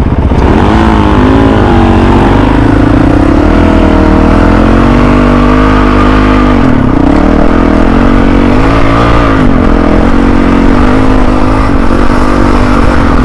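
Dirt bike engine being ridden hard, its pitch climbing and dropping back several times as the throttle is worked, with sharp dips about two, seven and nine seconds in.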